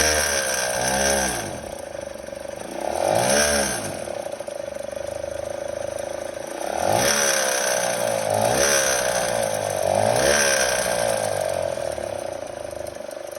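Kymco Super 8 50cc two-stroke scooter engine revved in about five short throttle blips, the pitch rising and falling each time over a steady mechanical drone. It makes an abnormal noise that the owner cannot place and says gets worse as the revs drop, after a derestricted Naraku variator with 8 g rollers was fitted.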